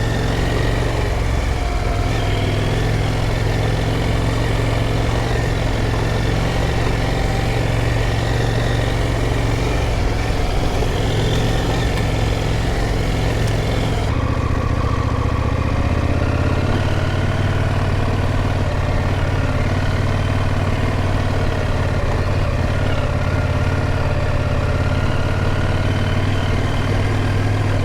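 KTM motorcycle engine running steadily at low, even revs as the bike is ridden slowly through sand. Its tone shifts a little about halfway through.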